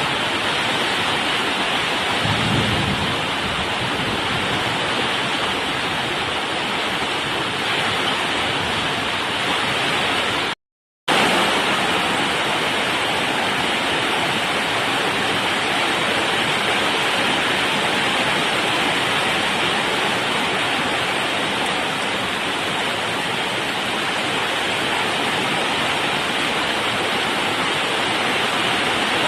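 Heavy rain pouring down in a thunderstorm: a loud, steady, dense hiss. A brief low rumble comes about two seconds in. The sound cuts out for half a second about eleven seconds in, then resumes unchanged.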